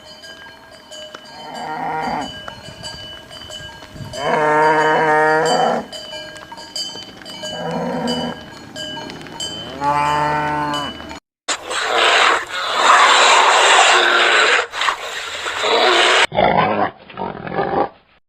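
Cattle mooing: four drawn-out calls, the second the longest. After a cut, a loud, rough, noisy animal sound runs for about five seconds near the end.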